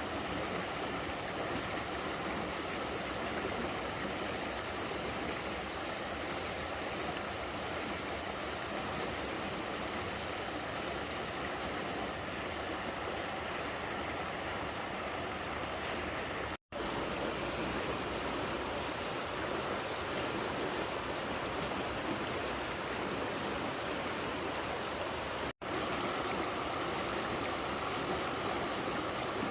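Steady rushing of running water, even and unbroken except for two instant dropouts to silence, about halfway through and again near the end.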